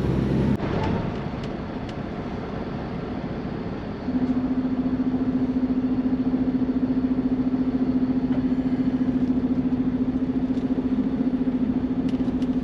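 Semi truck's diesel engine and road noise heard inside the cab while driving. About four seconds in, a steady low drone with a fast even pulse sets in and holds.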